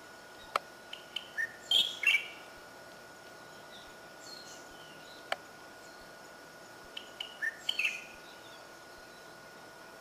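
A songbird calls in two short bursts of quick chirps, the first about a second in and the second near the end. A single sharp chip comes in between.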